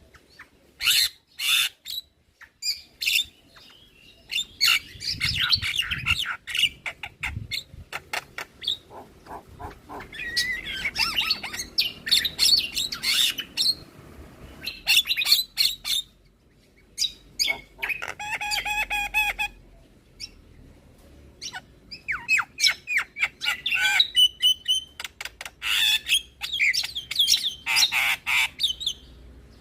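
Javan myna singing a loud, varied, chattering song of harsh squawks, rapid clicks and whistled phrases, broken by short pauses, with a held, buzzy pitched note about two-thirds of the way through. It is a "full isian" song, packed with mimicked calls.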